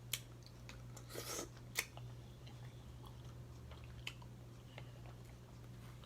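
A person chewing food close to the microphone: soft mouth smacks, with a few sharp clicks and a short wet burst in the first two seconds, then fainter clicks. A low steady hum runs underneath.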